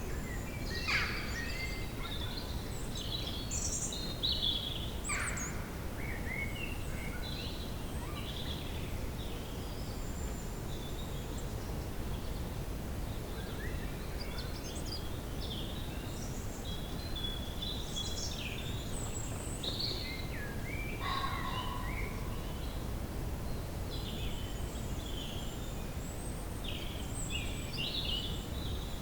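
Woodland ambience: several small birds calling and chirping in short, scattered phrases over a steady low background rumble.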